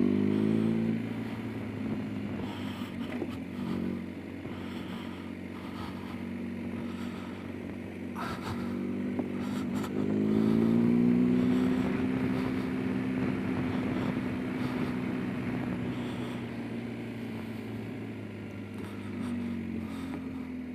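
Motorcycle engine running at low road speed, the revs rising and getting louder about ten seconds in, then easing off slowly. A few short clatters around eight seconds in.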